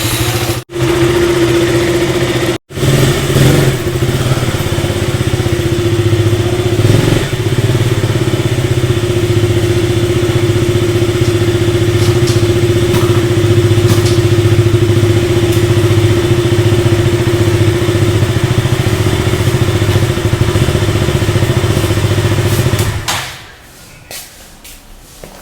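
KTM Duke 200 motorcycle's single-cylinder engine running steadily at idle, still on its stock air filter. The sound breaks off briefly twice near the start and stops about 23 seconds in.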